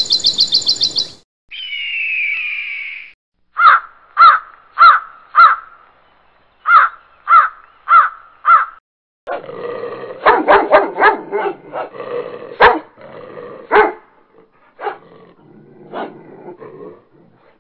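Birds chirping in a quick trill as a flock takes off from a wire. After that come short animal calls in two runs of four, about half a second apart, and then a busier stretch of knocks mixed with more calls.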